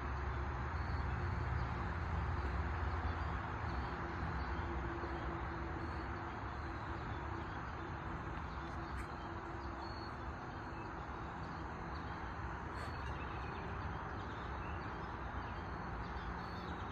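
Steady outdoor ambience: an even background hiss with a low rumble, strongest in the first few seconds, and a couple of faint ticks.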